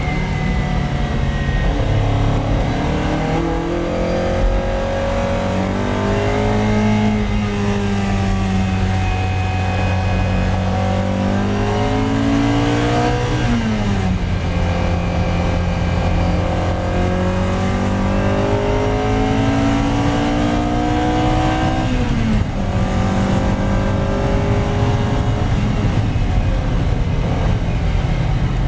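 A Ferrari 308 GTB's mid-mounted V8 heard from inside the cabin, accelerating hard and revving up through the gears. Its pitch climbs steadily and drops sharply twice, about 14 and 22 seconds in, at upshifts from 2nd to 4th.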